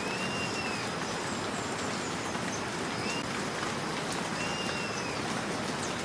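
Steady rain, with a short high whistle that rises and falls heard three times over it.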